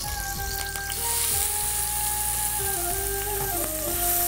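Chopped onion and green chillies sizzling in hot oil in a pan, the sizzle getting louder about a second in. Background music of held notes plays over it.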